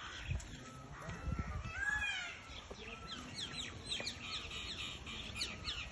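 Several birds calling. There are a few rising-and-falling calls in the first couple of seconds, then from about three seconds in a rapid stream of short falling chirps, all over a low rumble.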